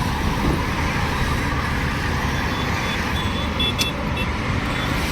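Steady motor-traffic road noise, with a series of faint short high beeps a little past the middle.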